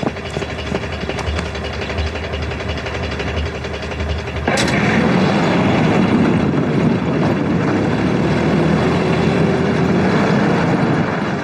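Car engine and road noise as a car drives off; about four and a half seconds in the sound cuts abruptly to a louder, steady rush of vehicle noise.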